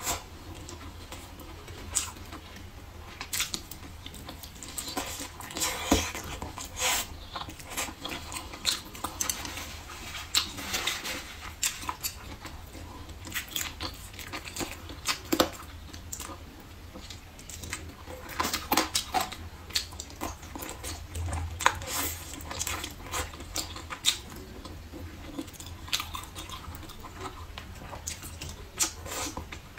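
Close-miked eating: chewing and lip-smacking on braised pork ribs and blistered green peppers, heard as many irregular wet smacks and clicks.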